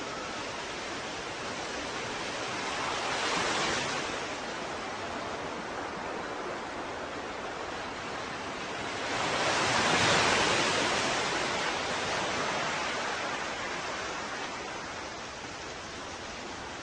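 Ocean surf washing steadily, with two waves swelling and breaking: a smaller one about three seconds in and a louder one around ten seconds in that slowly fades away.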